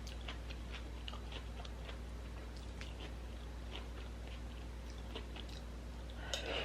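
Someone chewing food: soft, irregular crunching clicks over a steady low hum.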